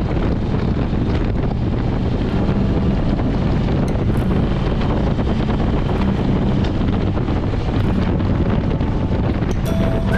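Wind buffeting the microphone at riding speed, with the 2007 Harley-Davidson Street Glide's V-twin engine running underneath.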